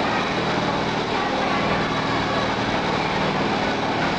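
Airplane ride running with a steady mechanical drone and a constant high whine, even in level throughout.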